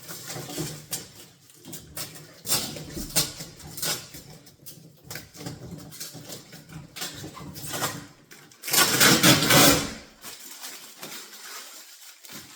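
Packing material being handled and pulled off a new refrigerator: a run of irregular rustles, clicks and scrapes, with a louder, noisy burst lasting about a second about two-thirds of the way through.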